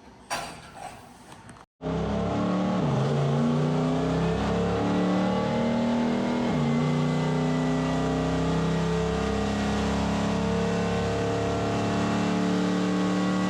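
Turbocharged Gen V LT V8 in a Silverado running hard under load on a chassis dyno. Its note steps down in pitch twice as it shifts gear, with a thin high turbo whine over it.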